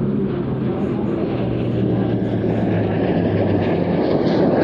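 Airbus A400M's turboprop engines droning as it flies past with its Eurofighter escort, the propeller tone slowly falling in pitch while a rushing engine noise swells near the end.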